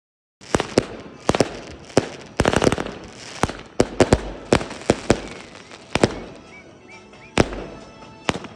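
A 200-shot fireworks cake firing its shots: sharp bangs in quick, irregular succession, about two or three a second, with crackling between them. It starts about half a second in.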